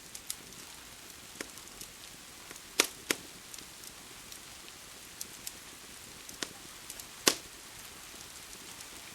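Wood fire crackling with scattered sharp pops over a steady hiss of rain. The loudest are a pair of pops a third of the way in and a single pop past the two-thirds mark.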